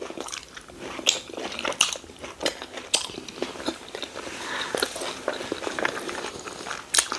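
Close-miked chewing and biting of rice and stew with meat, a run of irregular short mouth clicks.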